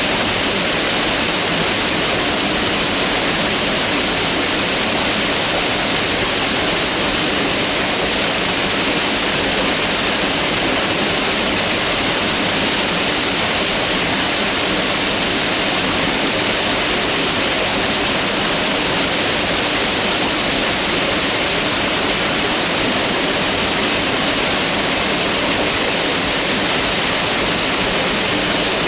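Mountain river rushing steadily over rocks, a dense, even roar of flowing water.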